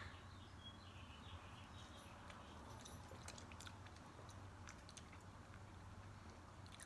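Two people chewing soft filled milk chocolate, faint wet mouth sounds and small clicks now and then, over a low steady hum.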